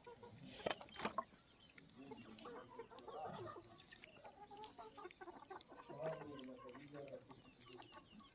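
Faint animal calls, with a few sharp clicks about a second in.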